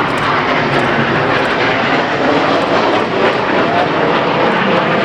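BAE Hawk T1 jet aircraft flying a display, a loud steady jet engine noise.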